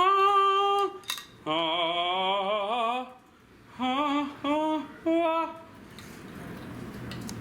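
A voice singing wordless, operatic-style held notes with a wavering pitch, then three short sung notes, after which only low room noise remains.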